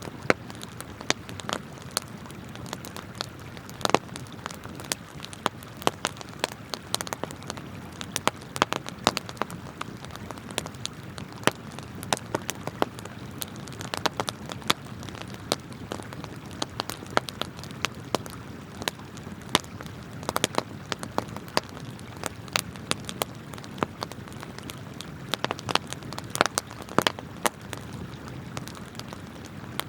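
Wood campfire crackling, with many sharp, irregular pops and snaps, some much louder than the rest, over the steady rush of flowing river water.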